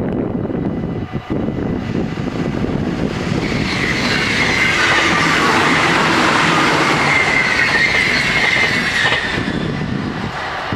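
Electric passenger train passing at speed over a level crossing. The rush of its wheels on the rails builds, peaks with a high steady whine midway, then fades as it goes by.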